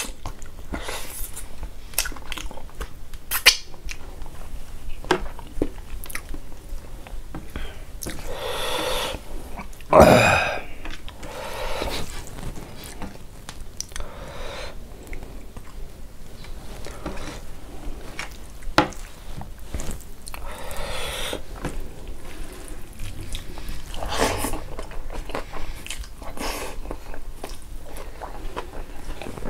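Close-up chewing and lip smacking of a person eating rice and pork with his hand, with many short wet clicks of the mouth and fingers. One louder brief mouth sound comes about ten seconds in.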